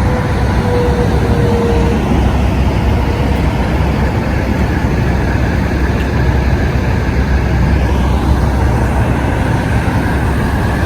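Steady low rumble of road vehicles and truck engines, with no breaks or sudden events.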